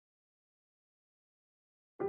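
Complete silence, with no sound on the track, until music cuts in right at the very end.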